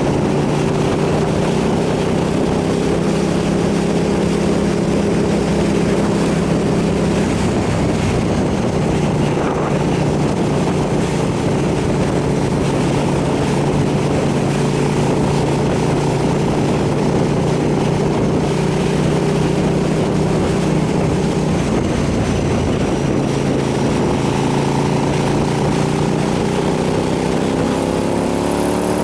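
KTM 990 SMR's V-twin engine running at steady cruising revs under wind rush, its pitch climbing in the last couple of seconds as it accelerates.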